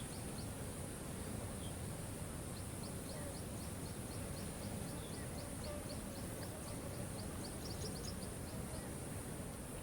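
Steady rush of a waterfall, with a bird calling over it in runs of short, high, rapid notes, about four a second.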